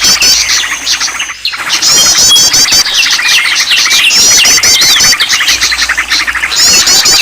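Dense chorus of many songbirds calling at once, overlapping rapid chirps and repeated high trills, a mixed bird-lure recording of the kind played to get caged birds singing. The chorus drops away briefly about a second and a half in.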